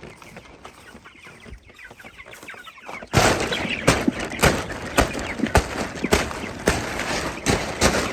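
Chickens clucking, then from about three seconds in a loud rough rustle with sharp whacks about twice a second: a chicken tractor's tarp and frame being struck to drive the hens forward.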